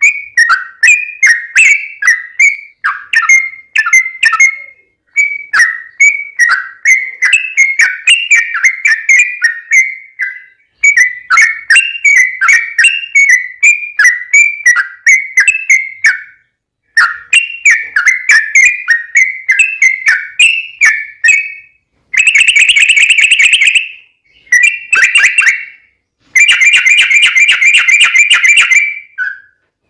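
Yellow-vented bulbul (trucukan) singing: quick runs of short, bubbling whistled notes in phrases with brief pauses. About two thirds of the way in, the song changes to two longer, dense chattering trills.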